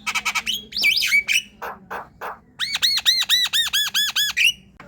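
Javan myna singing: harsh chattering notes and a short whistle, then a fast run of about ten repeated rising-and-falling whistled notes, around five a second.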